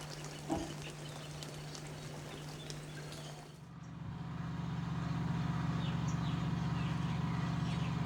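Wild birds giving short high chirps over outdoor background noise, with one thump about half a second in. A few seconds in, the sound cuts to a steady low hum like a distant engine, with bird chirps continuing above it.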